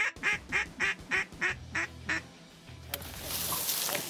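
Duck quacking in a quick, even series of about eight quacks, roughly three a second, that stops about two seconds in. A high rushing noise follows near the end.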